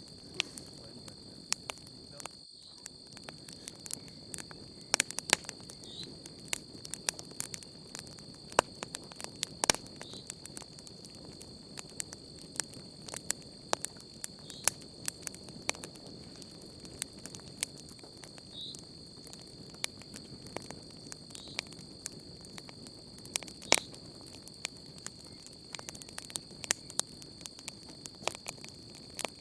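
Wood campfire crackling, with irregular sharp pops and snaps of varying loudness, over a steady high-pitched chorus of night insects.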